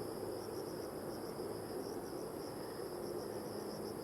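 Insects chirring steadily in a high, slightly pulsing band, over a faint low background hum.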